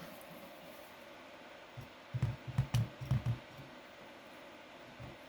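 A quick run of about seven light knocks and clicks, starting about two seconds in, with one more soft knock near the end, over a steady fan hum.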